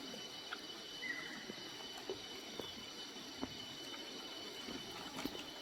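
Faint, scattered footsteps on stony ground, a knock every half second to a second, over a steady low hiss.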